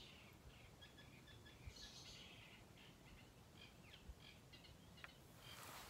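Near silence, with faint bird chirps scattered throughout.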